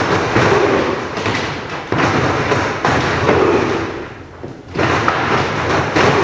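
Repeated heavy thuds and slams of wrestlers' bodies hitting the wrestling ring during training drills, with a short lull about four seconds in.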